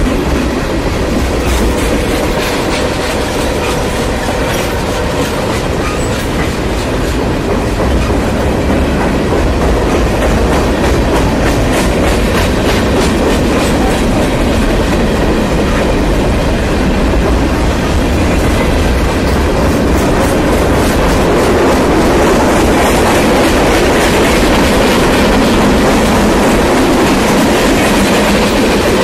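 Freight train cars (tank cars, gondolas and covered hoppers) rolling past: a steady rumble of steel wheels on rail with a continuous clickety-clack of clicks, growing slightly louder toward the end.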